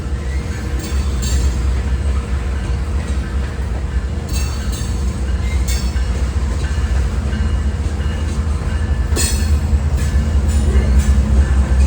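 Train rolling past with a steady low rumble, and short high-pitched metallic squeals and clanks from the wheels and cars every second or two.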